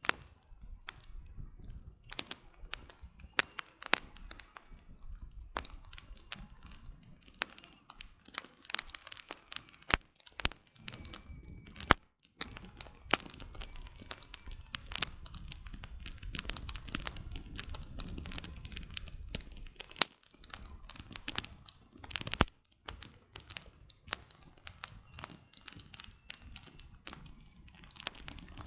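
Campfire of burning firewood crackling, with dense irregular sharp pops and snaps over a soft low rush of flame.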